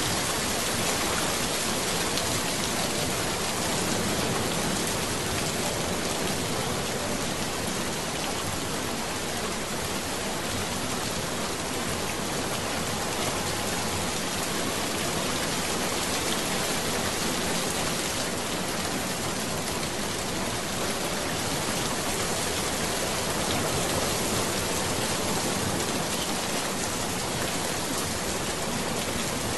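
Steady rain noise, an even hiss with no change in level: the cover sound of a subliminal track.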